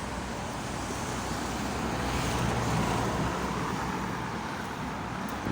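Main-road traffic: a steady wash of engine and tyre noise, swelling as a vehicle goes past about two to three seconds in.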